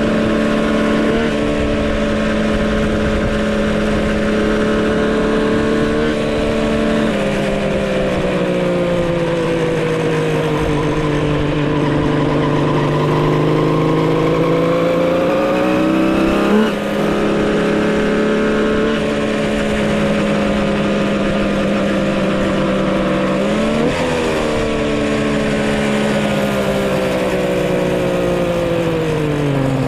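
Custom-built three-cylinder two-stroke motorcycle engine running under way while being broken in. Its pitch holds steady, sags slowly and climbs back with the throttle, jumps up quickly about halfway through, and falls away near the end.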